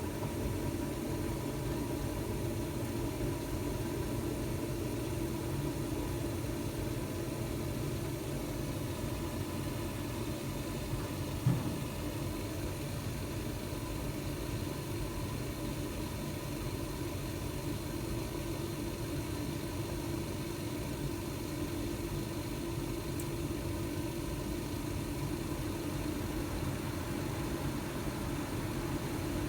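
Carrier gas furnace running as it starts up: a steady mechanical hum with a held tone. A single short knock comes about eleven and a half seconds in.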